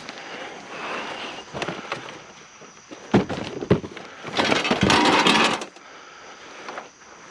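Scrap items being handled and tossed in a junk pile: a couple of sharp clanks about three seconds in, then a longer scraping clatter for about a second, with lighter knocks after.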